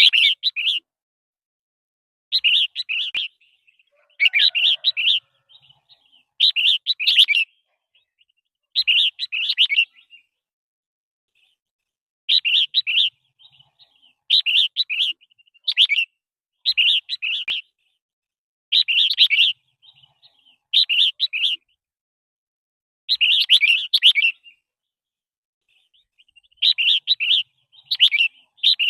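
Red-whiskered bulbul singing: a series of short song phrases, each under a second long, repeated every one to two seconds with brief pauses between them.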